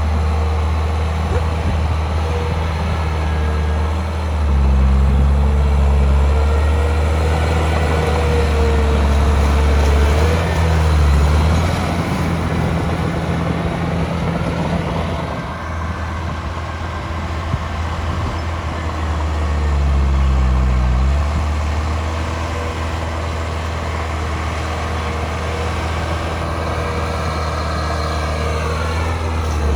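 Heavy diesel engine of earth-moving machinery running steadily, working harder and louder twice: about 4 to 11 seconds in and again around 20 seconds. A whine falls in pitch near the end.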